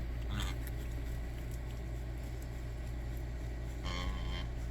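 Domestic ducks or geese giving two short calls, one just after the start and a longer one near the end, over a steady low hum.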